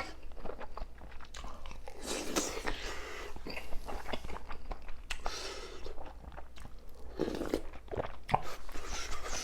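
A person biting and chewing crunchy food close to the microphone, with a run of crisp crunches throughout.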